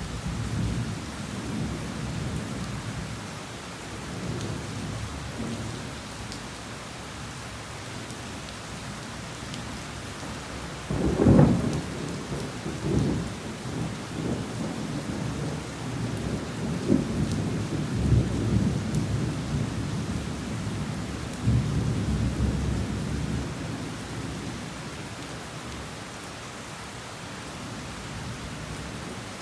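Heavy rain falling steadily through a thunderstorm. About a third of the way in a sharp thunderclap breaks, followed by several rolling rumbles of thunder that die down in the last few seconds, leaving the rain.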